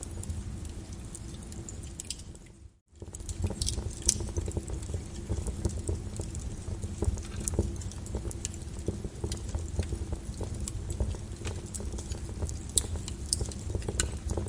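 Flowing lava crackling and popping with irregular sharp snaps over a steady low rumble. About two and a half seconds in, the sound dips briefly to near silence and then comes back.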